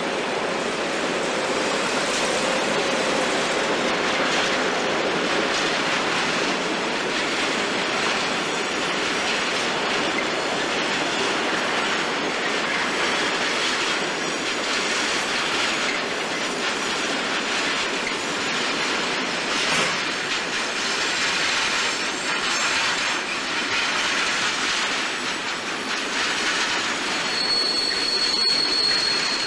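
A freight train of pocket wagons carrying lorry trailers rolling past at steady speed: a continuous rush of wheel and rail noise. A thin high wheel squeal comes in near the end.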